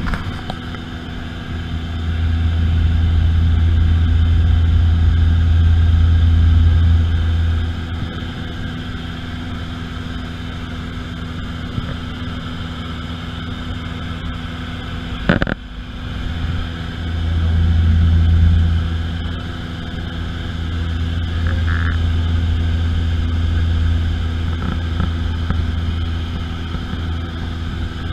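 Airplane engine drone: a steady low hum with a stack of steady tones above it, swelling in level twice. There is one sharp click about fifteen seconds in.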